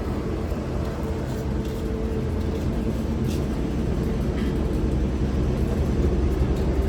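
Engine or motor running steadily: a low hum with a held tone, slowly growing louder, and a few faint knocks over it.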